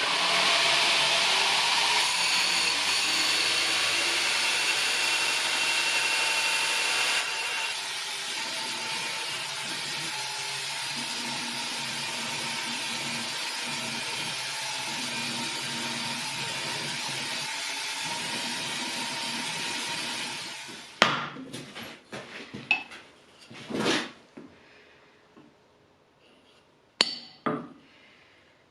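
An electric power tool runs steadily for about twenty seconds, a little quieter from about seven seconds in, then winds down. A few short knocks and metallic clinks follow near the end.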